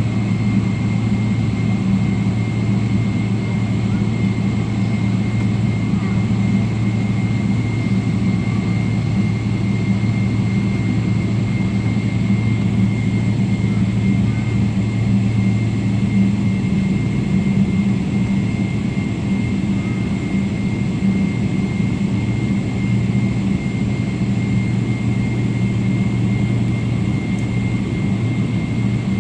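Boeing 777 jet engines running, heard inside the passenger cabin as a loud steady low hum with a thin steady high tone over it; the lowest part of the hum dips briefly partway through, then returns.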